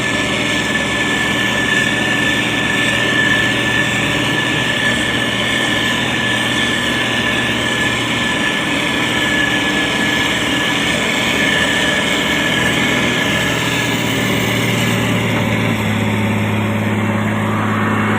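Heavy construction machine's diesel engine running steadily, most likely the motor grader working gravel, with a steady high whine over the engine note that fades out near the end.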